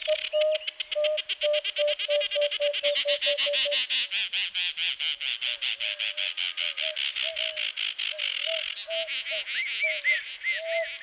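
Nature soundscape of animal calls: a fast pulsing chorus with rows of short repeated calls over it, and, about nine seconds in, the pulsing drops away and a bird's arching whistled notes repeat several times.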